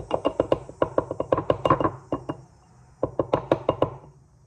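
Quick repeated taps of a spice bottle being knocked and shaken to pour ground ginger into a glass jar, in two runs with a short pause about two seconds in.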